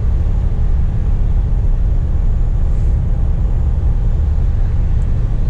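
Scania P420 truck's diesel engine running, heard from inside the cab as a steady low rumble.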